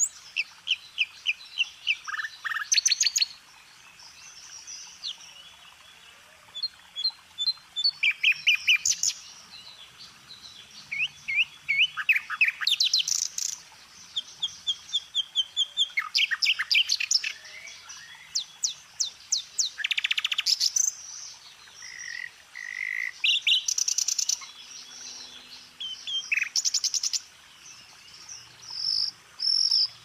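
Small birds chirping, with quick runs of sharp, high chirps every few seconds and quieter chirping between them.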